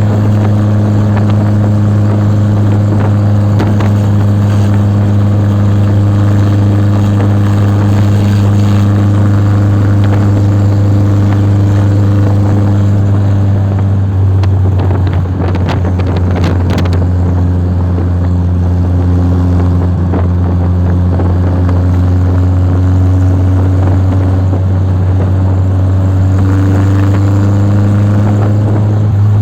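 A vehicle engine running at a steady speed: a constant low, even hum that barely changes pitch, with a brief patch of clicks about fifteen seconds in.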